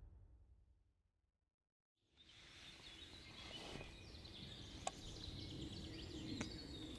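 Near silence, then faint woodland ambience fading in, with birds chirping and a single click.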